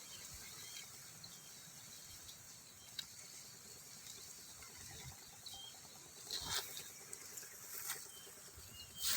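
Quiet outdoor ambience with a faint steady high hiss and a few short, faint, high chirps. Brief rustles come two or three times in the second half.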